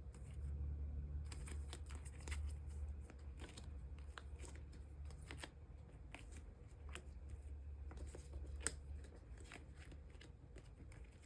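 Photocards and clear plastic card sleeves being handled: a string of light, irregular clicks and rustles as cards are slid into sleeves, over a faint steady low hum.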